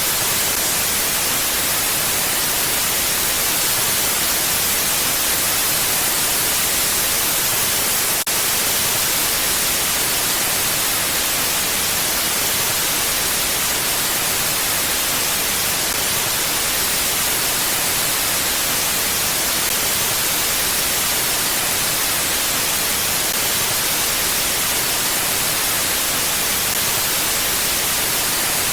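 Steady, even wind hiss without gusts, strongest in the high range, with a brief dip in level about eight seconds in.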